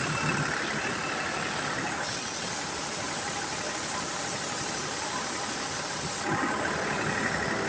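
A machine running steadily with a continuous hiss on top, without a break.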